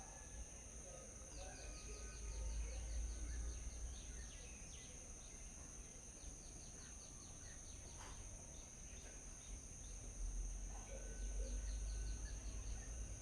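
Small birds calling in quick runs of short, rapidly repeated chirps, three bouts with scattered single calls between, over a steady high-pitched insect drone. Low wind rumble comes and goes.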